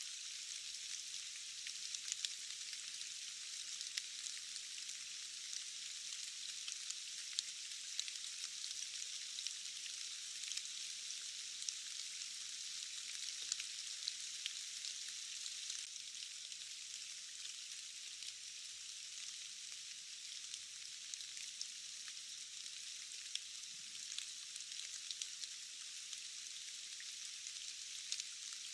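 Steady rain, an even hiss full of small drop ticks, thin and without any low rumble.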